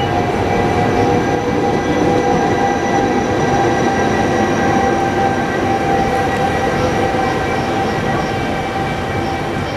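Electric train of double-deck coaches, hauled by a locomotive at its rear, rolling past along the platform. There is a steady rumble of wheels on rails with a thin, steady whine over it. The sound eases slightly near the end.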